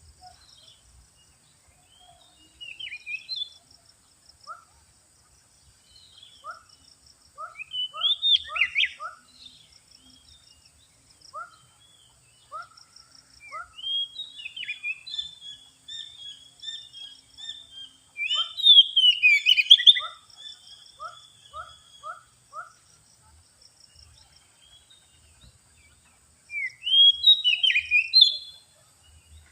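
Male Oriental magpie-robin (kacer) singing its territorial fighting song: several loud bursts of fast, varied whistled phrases. Between them come short repeated two-note calls, and a steady high insect drone runs underneath.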